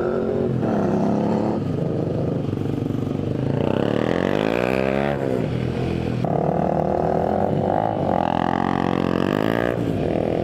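Motorcycle engine running under way, its note rising and falling twice, around four seconds in and again near the end, over a steady rush of wind and road noise.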